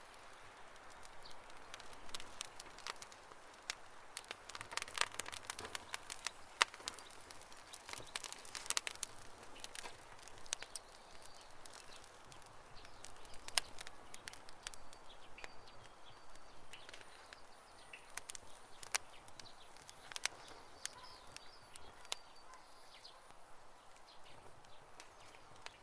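Wood campfire crackling, with irregular sharp pops and snaps that come thickest in the first half.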